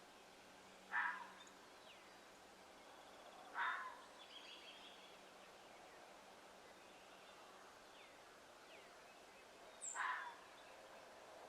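Three short, noisy animal calls from an unidentified animal, about a second in, at about three and a half seconds, and near the end. A few faint, high chirps sound between them.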